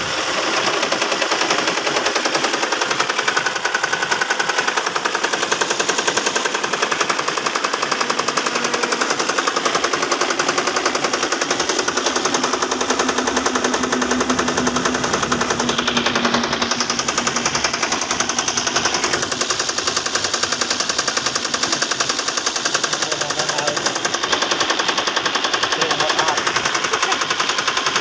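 2005 Toyota Prius's 1.5-litre four-cylinder petrol engine running with a rapid, steady ticking knock. The car has logged random and cylinder 1 and 2 misfire codes.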